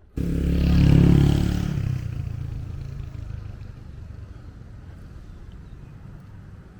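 A motor vehicle's engine passing close by, loudest about a second in and then fading away into a steady low traffic rumble.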